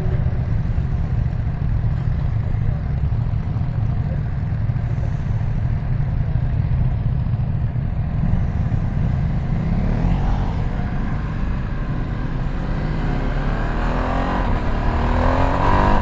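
Ducati Streetfighter V2S's L-twin engine running on the move under a steady low rumble of wind. From about ten seconds in, the revs climb and the bike accelerates, getting louder near the end.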